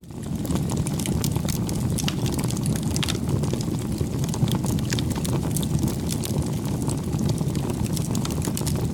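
Wood bonfire burning: a steady low rumble of flames with many scattered sharp crackles and pops.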